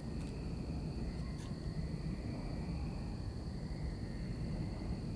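Steady background noise during a pause in speech: a low rumble under a steady high-pitched whine, with a few faint clicks.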